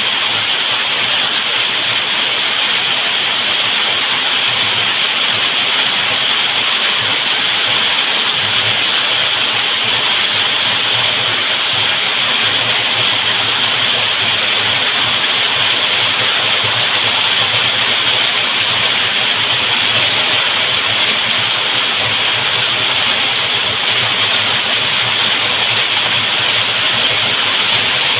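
Heavy rain ambience, a dense steady hiss with no single drops standing out: a rain sound effect laid over the footage.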